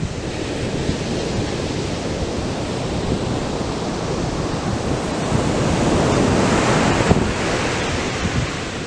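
Atlantic surf breaking on a sandy beach: a steady rush of waves that swells to a peak about two-thirds of the way through, then eases, with wind buffeting the microphone.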